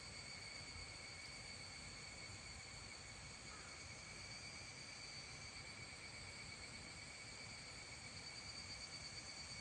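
Faint evening insect song: one steady, unbroken high-pitched trill that holds the same pitch throughout, over a low background rumble.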